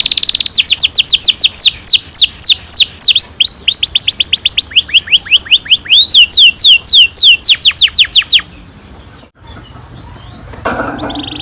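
Domestic canary singing a long roll: a fast run of short whistled notes, each sweeping down in pitch, about seven or eight a second, with the tempo changing along the way. The song stops about three-quarters of the way through, and a different, fainter sound starts near the end.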